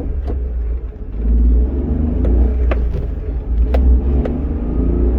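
Nissan Clipper DR17V (Suzuki Every) kei van running, a strong low rumble with a handful of sharp clicks at irregular moments. The van makes an abnormal noise when the brake is pressed.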